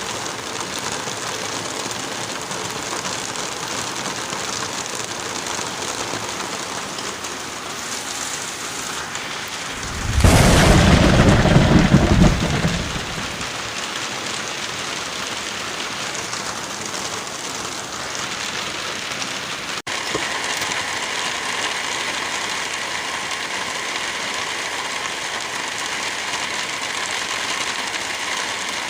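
Steady rain falling, with one loud thunderclap about a third of the way in that rumbles for a couple of seconds and then fades.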